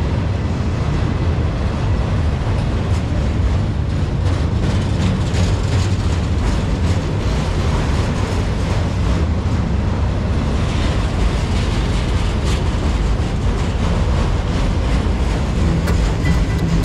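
Freight train rolling past: a steady, loud rumble of steel wheels on rail, with a running patter of clicks and clanks as the cars go by.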